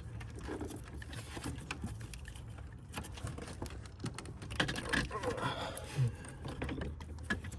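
Hands working a small metal bracket and tools into place by feel: a scatter of light clicks, taps and scrapes of metal and plastic, busiest from about three to six seconds in.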